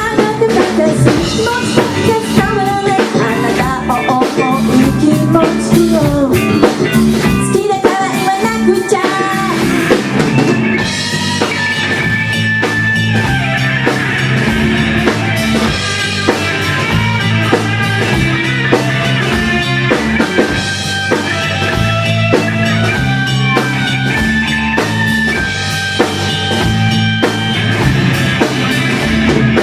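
A live rock band playing a song, with drum kit, guitar and bass and a voice singing. The sound grows fuller and brighter about ten seconds in.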